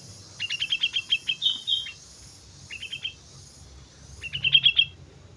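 Sooty-headed bulbul (kutilang) singing in three quick phrases of rapidly repeated chirping notes. The first phrase is the longest and ends in two drawn-out notes; a short phrase follows, then a loud one near the end. A steady high hiss runs underneath.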